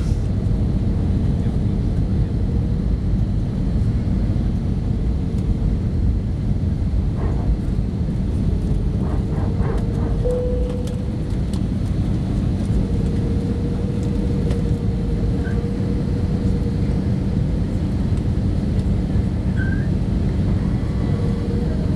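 Cabin noise inside an Airbus A318 on approach: a steady rush of engine and airflow noise with a steady mid-pitched tone running through it.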